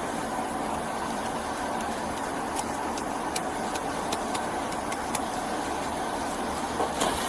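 Steady low hum of an idling motor vehicle, with a few light clicks and knocks over it, the strongest near the end.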